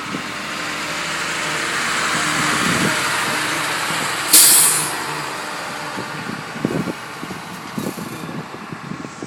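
A large truck going by, its noise building over the first few seconds, with a short, sharp air-brake hiss about four seconds in.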